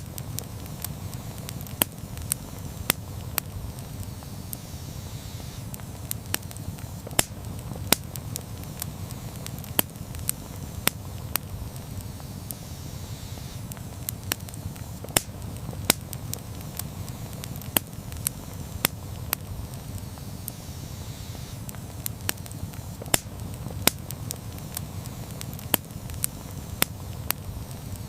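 Wood campfire burning, a steady low rumble of the flames with sharp crackles and pops at irregular intervals, several a second.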